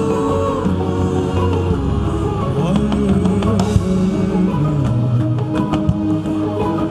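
Worship band music with drums, changing bass notes and held pitched notes, with some singing.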